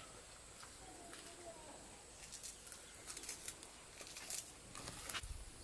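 Faint bird calls, short gliding notes in the first second or so, with scattered light rustling clicks in the second half.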